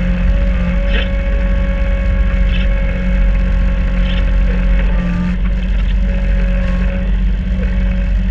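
Kubota B2650 compact tractor's three-cylinder diesel engine running steadily at working speed, driving a front-mounted Kubota B2782 snowblower, with a steady whine over the engine note.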